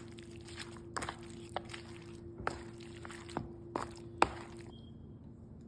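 A handful of scattered knocks and clicks, such as a spoon against a bowl, with the sharpest one about four seconds in, over a steady hum that stops near the end.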